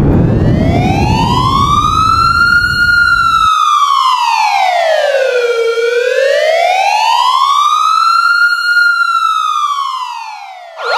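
An emergency siren wailing slowly up and down, two full rises and falls, fading out near the end. Under its start, the noisy rumble of an explosion runs on for the first three and a half seconds and cuts off suddenly.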